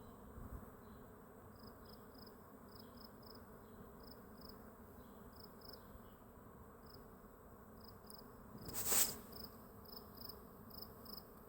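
Faint steady buzzing of a swarm of bees in flight. A string of short high chirps repeats over it, and a brief rush of noise comes about nine seconds in.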